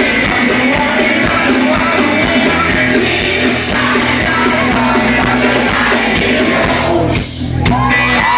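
A live rock band playing loudly with singing. Near the end the music breaks off and high whoops and whistles rise from the crowd.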